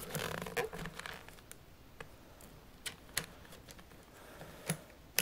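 Motocross boots being handled: rustling for about the first second, then a few scattered sharp clicks and taps.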